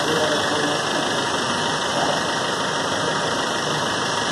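Maruti Suzuki Brezza engine idling steadily while its intake is fed hydrogen-oxygen gas through a hose during an HHO engine carbon-cleaning treatment.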